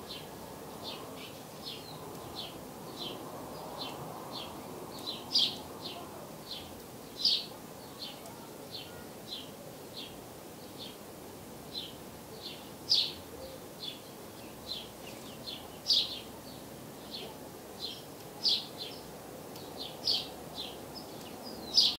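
A small songbird chirping in short high calls, about two a second, with a louder chirp every few seconds, over faint steady background noise.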